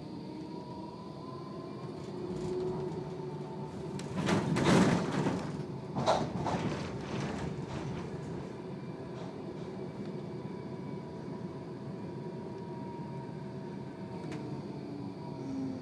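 Tram doors working: a loud rush about four seconds in, then a sharp clatter as they shut around six seconds in. Under it runs the tram's steady electrical hum with a held whine.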